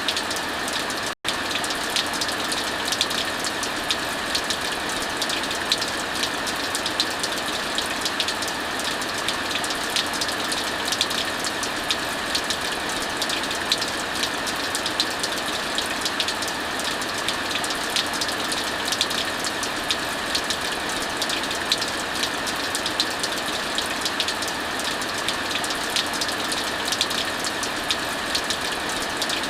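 Heavy, steady rainfall mixed with the crackling and popping of a wood fire, many small sharp snaps at irregular intervals over the rain's hiss. The sound cuts out for a split second about a second in.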